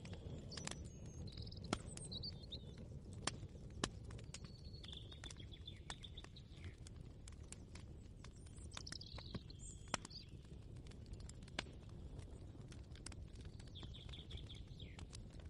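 Kitchen ambience: a steady low rumble with scattered sharp clicks and knocks, the loudest a few single clicks. Birds chirp in short calls several times in the background.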